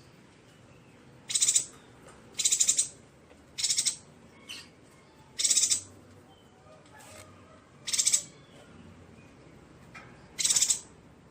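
Yuhina calling: about six short calls, each roughly a third of a second long, repeated at irregular intervals of one to two and a half seconds.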